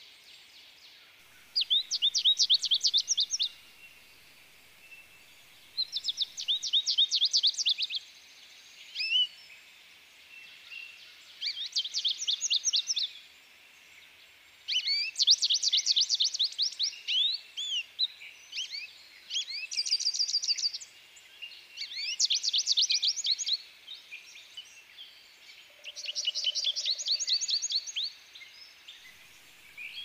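A songbird singing: about seven phrases, each a rapid run of quick, steeply falling high notes lasting one to two seconds, repeated every few seconds.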